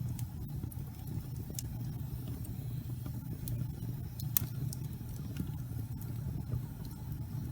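Wood fire burning in a fireplace: a steady low rumble of flames with sharp crackles and pops every second or so, one louder pop a little past halfway.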